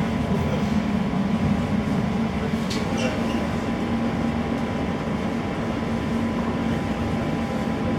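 Elizabeth line Class 345 train running, heard from inside the carriage: a steady rumble and hum with a constant tone. A brief high-pitched squeal comes about three seconds in.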